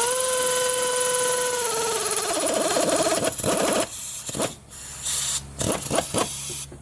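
Pneumatic air wrench running a fastener down: a steady whine that drops in pitch about two seconds in as the fastener tightens, then a rougher stretch and several short bursts.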